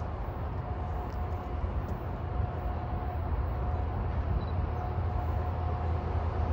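Approaching freight train: a low, steady rumble that slowly grows louder, with a thin steady high tone running through it.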